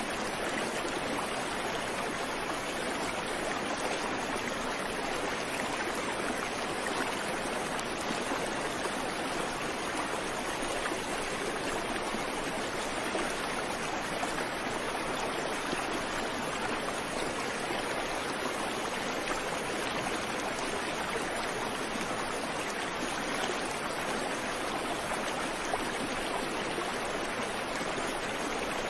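Creek water flowing steadily over rocks, an even rushing with no birds.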